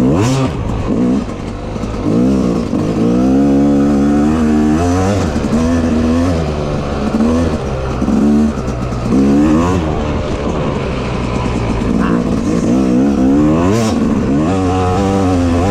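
Yamaha YZ250X two-stroke single-cylinder dirt bike engine revving hard and dropping off again and again as it is ridden through sand, its pitch climbing and falling every second or two.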